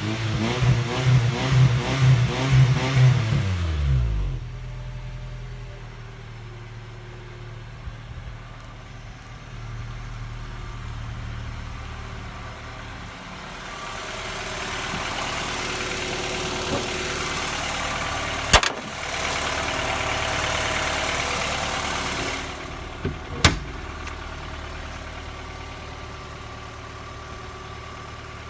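Honda Odyssey RA6's four-cylinder engine revved up and down several times, then settling to a steady idle about four seconds in. Later a louder hissing noise rises over the idle for several seconds, with two sharp knocks, before the engine idles steadily again.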